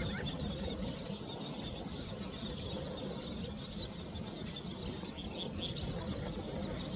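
Many short, high bird chirps and calls, scattered throughout, over a steady low rumble of wind.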